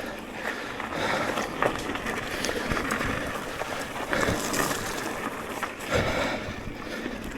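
Electric mountain bike being ridden along a dirt trail: a steady rush of tyre and wind noise, with a few sharp knocks and rattles from the bike over bumps.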